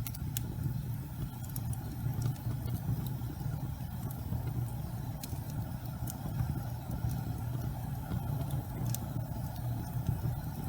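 Gas fireplace flames burning with a steady low rumble, with a few faint crackles and ticks scattered through it.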